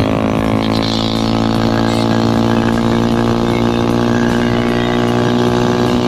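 Car engine running through a freshly fitted HKS aftermarket exhaust, a loud, steady drone at an even pitch with no revving.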